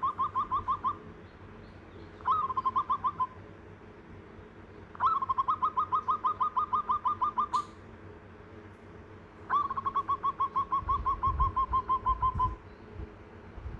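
A bird calling in series of rapid repeated notes, about nine a second, each series lasting one to three seconds; four series in all, with short gaps between them. A sharp click comes about halfway through.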